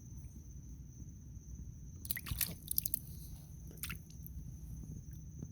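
A few short squelching splashes of shallow floodwater: a quick cluster about two seconds in and one more near four seconds, over a low rumble.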